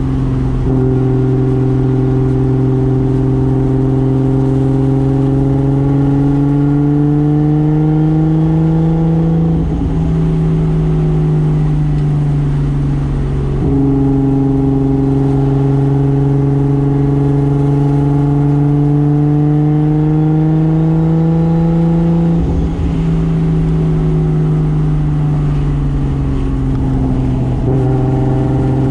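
A 1995 Toyota Soarer's single-turbo 2JZ straight-six engine pulling under load, its pitch rising slowly and steadily over two long runs of about nine seconds each. The engine note breaks and eases briefly about ten seconds in, again a few seconds later, and once more past the twenty-two-second mark before the engine pulls again.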